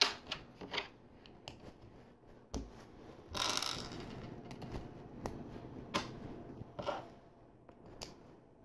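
Small plastic LEGO pieces clicking and tapping as they are handled and fitted together: a scattering of sharp clicks, with a short rustle about three and a half seconds in.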